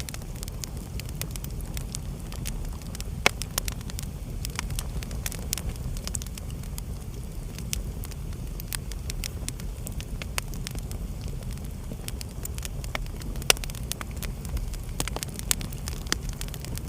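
Wood fire crackling in a fireplace: a steady low rumble with quick irregular snaps, and two sharper pops, about three seconds in and again near thirteen and a half seconds.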